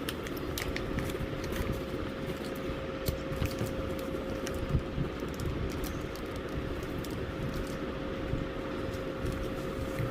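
Steady background hum with one constant tone, broken by scattered light clicks and crackles.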